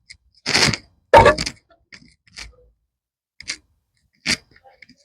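Metal tools knocking and clanking against car front-suspension parts while a worn part is worked loose. The loudest knock comes about a second in, followed by a few lighter, spaced-out taps.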